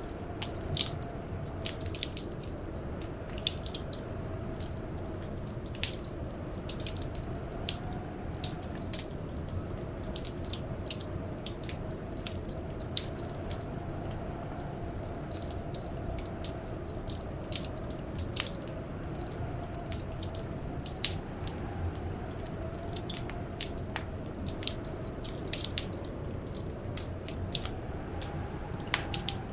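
Wood fire crackling in a fireplace: irregular sharp pops and snaps, several a second, over a steady low rumble. Beneath it a faint blizzard wind howl slowly rises and falls in pitch.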